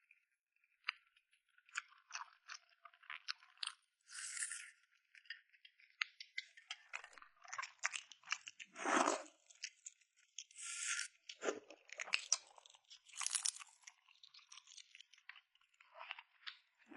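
Close-miked eating: a person crunching and chewing balut (fertilized duck eggs), a dense run of crisp crackles and wet mouth clicks, with a few louder bites in the middle.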